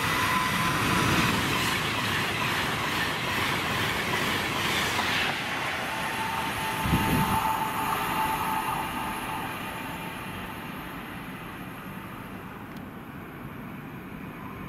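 A train running past on the main line, loud at first and then fading steadily as it moves away, with a brief low thump about seven seconds in.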